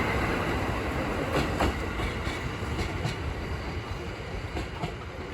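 Train running along the track: a steady rumble with wheels knocking over rail joints every second or so, growing gradually quieter as it draws away.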